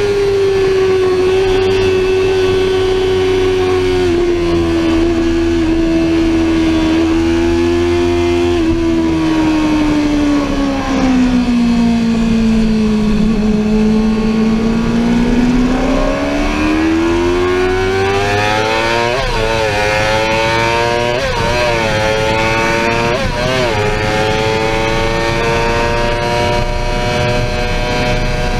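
Sportbike engine under way: the revs hold steady, fall for several seconds as the bike slows, then climb again. Three quick upshifts about two seconds apart in the second half each briefly drop the revs before the engine settles at high revs.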